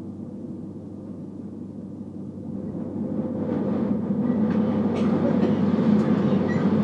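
Passenger train running, heard from inside the carriage: a steady rumble that grows louder about three seconds in, with a few faint clicks near the end.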